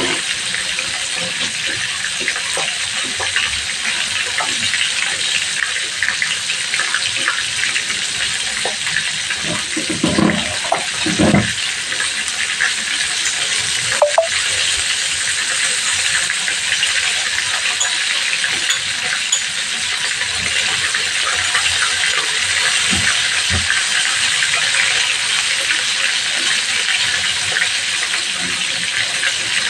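Chicken pieces frying in shallow oil in a wok: a steady, dense sizzle throughout. A couple of brief, lower sounds come about ten and eleven seconds in.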